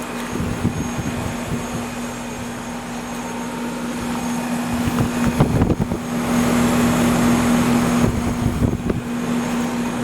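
Trane XE1100 heat pump outdoor unit running in cooling mode: the condenser fan blowing steadily over a constant electrical hum from the compressor. A few low bumps come near the middle, and the rushing gets louder for a couple of seconds after them.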